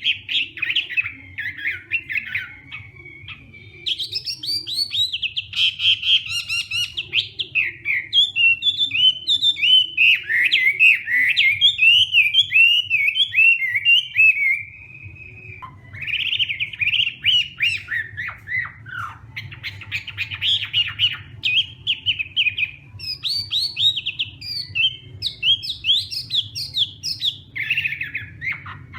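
Chinese hwamei singing a long, loud, rapidly varied song of whistled and slurred phrases, with short breaks about four seconds in and again about halfway through.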